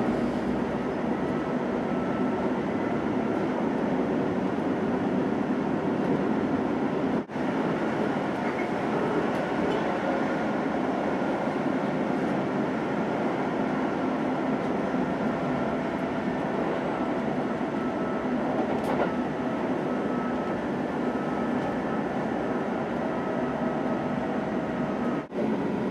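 Steady running noise of a Kintetsu limited express train at speed, heard from inside the passenger cabin. The sound cuts out for an instant twice.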